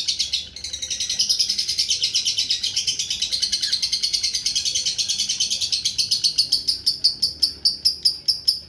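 Lovebird singing a long unbroken chattering trill of fast, high repeated notes, the extended 'ngekek' song kept by bird fanciers. It breaks off briefly about half a second in; near the end the notes slow and spread out before the song stops.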